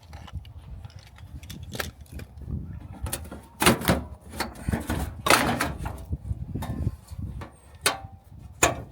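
Irregular knocks, clacks and clatters of metal parts being handled as a jump box is hooked up to a New Holland tractor, the loudest a little past a third of the way in and again just past halfway.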